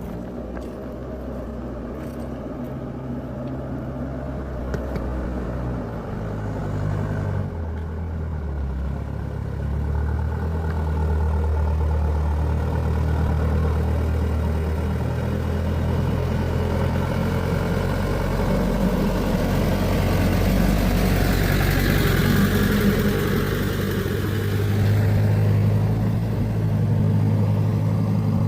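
Truck engine running as the truck drives in, its pitch shifting about seven seconds in and growing louder through the second half.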